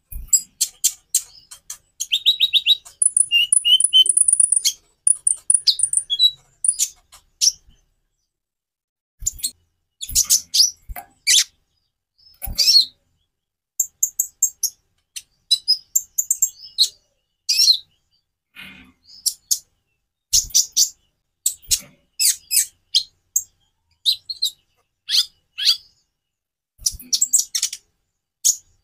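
A konin (kolibri ninja, a small sunbird) singing high, fast, metallic chirps and rapid trills in bursts with short pauses, including a long buzzing trill a few seconds in. A few soft knocks are heard among the song.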